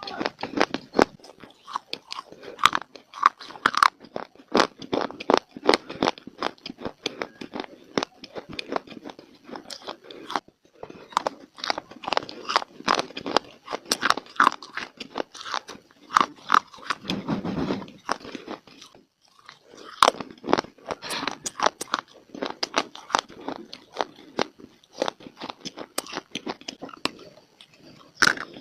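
Biting and chewing of dry baked clay: a dense run of sharp, crunchy cracks and grinding chews, broken by short pauses about ten and nineteen seconds in.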